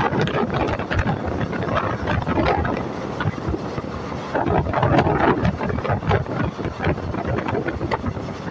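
Express passenger train running, heard from on board: a steady rumble of wheels on the rails with scattered clicks, and wind buffeting the microphone.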